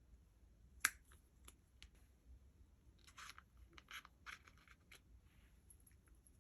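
Faint clicks and crackles of slime being worked by hand, with one sharp click about a second in and a cluster of quick clicks in the middle.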